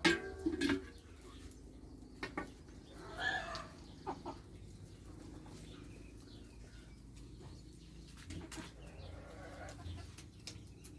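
Farm animals calling: a loud short cry right at the start and another pitched call about three seconds in, with a few sharp knocks in between over a faint steady background.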